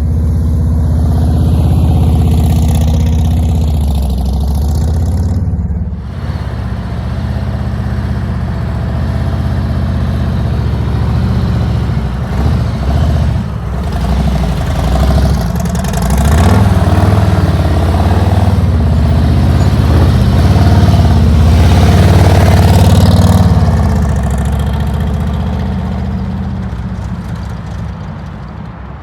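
Harley-Davidson V-twin motorcycle engine running at walking pace through tight slow-speed turns, its throttle rising and falling. The sound changes abruptly about six seconds in, is loudest in the middle and fades near the end.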